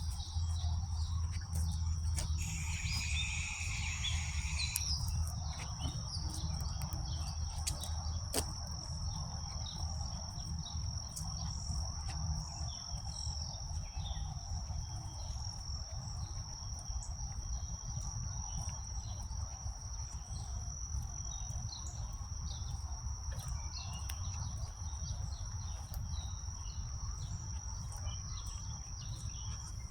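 Insects chirring in one steady high-pitched trill. Another higher call joins for about two seconds near the start, over a low rumble and a few light clicks.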